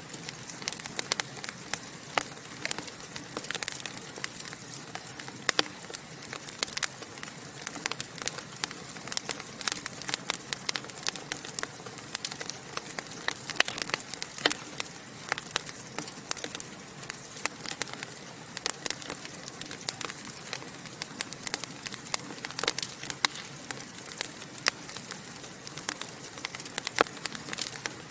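Wood fire in a fireplace crackling and popping: many sharp irregular snaps over a steady hiss of burning.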